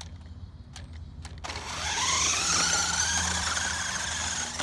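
A vehicle engine accelerating, its pitch rising and then levelling off. It starts suddenly about a second and a half in.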